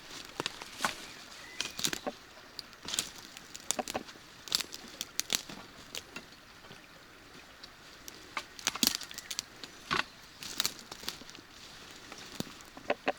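Someone walking outdoors in the rain: irregular crunching steps and sharp taps over a soft steady hiss.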